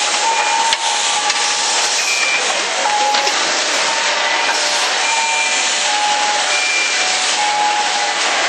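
Car assembly plant floor noise: a steady rush of machinery and air, with short electronic beeps sounding on and off throughout.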